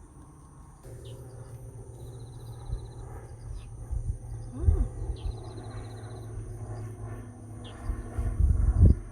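Wind buffeting the microphone in gusts, with an insect trilling in short repeated spells of about a second and a few brief high chirps. The gusts grow louder near the end.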